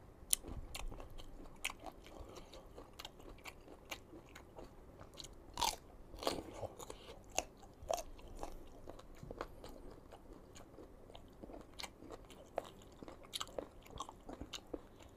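Close-miked crunching and chewing of crisp unripe green mango: irregular crisp crackles and clicks throughout, with a few louder crunches about halfway through.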